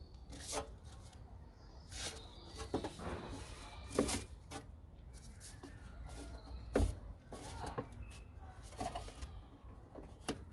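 Irregular clicks, knocks and squeaky rubbing as plastic and rubber cold-air-intake parts are handled and pushed together, with the two loudest knocks about four and seven seconds in.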